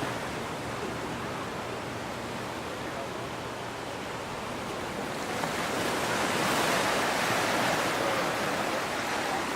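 Ocean surf washing on the shore, a steady rush that swells louder about halfway through and eases near the end.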